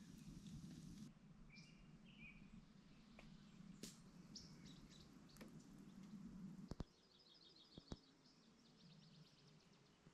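Faint birdsong: scattered short chirps, then a rapid trill of repeated notes later on, with a few sharp clicks.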